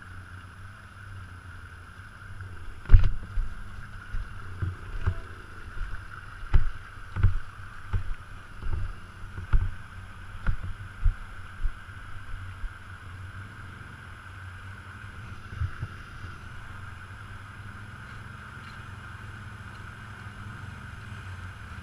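A run of dull knocks and thumps, roughly one a second, over a steady low rumble. The knocks die away after about thirteen seconds, and one more comes a few seconds later.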